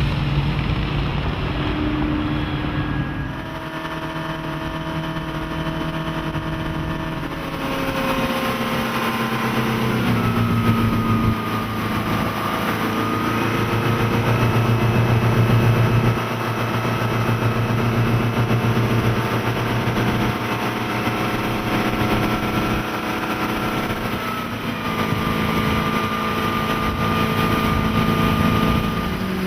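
Volvo Penta 5.0L GL V8 sterndrive running under way on a runabout. Its pitch shifts a few times as the throttle changes, rising about ten seconds in.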